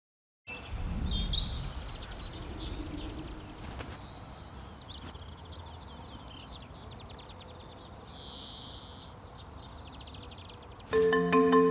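Several small songbirds singing and calling, with quick chirps and rapid trills, over a low background rumble that is strongest just after the start. Music with steady held notes comes in near the end.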